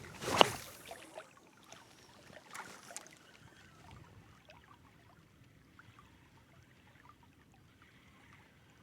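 A splash of water about half a second in, then a few smaller splashes and faint trickling.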